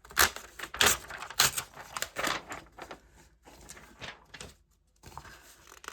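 Magazine pages rustling as they are handled: several short rustles in the first two and a half seconds, then fainter.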